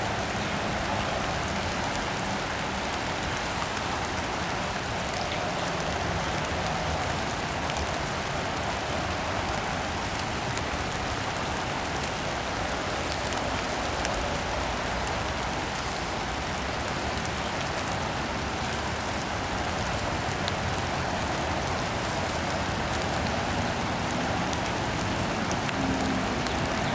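Steady rain falling, with a low rumble underneath from the cars of a slow freight train rolling past.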